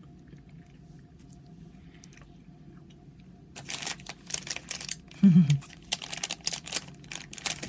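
Plastic snack packaging crinkling and rustling in irregular crackles, starting about halfway in, after a faint steady room hum.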